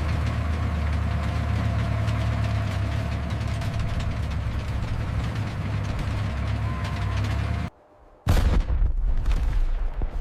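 Steady low rumble of armored vehicles on the move, with faint held tones over it. About eight seconds in it cuts out for a moment, then a sudden loud boom like an explosion breaks in and loud rumbling carries on.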